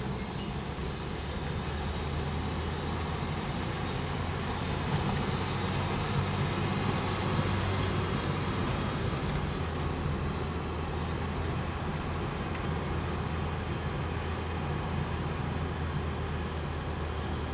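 Opel Kadett C's four-cylinder engine running steadily as the car rolls downhill, heard from inside the cabin, with tyre and road noise throughout.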